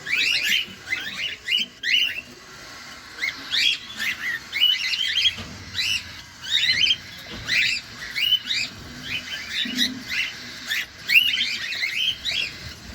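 Cockatiels chirping: short, rising chirps in quick clusters, repeated one or two times a second.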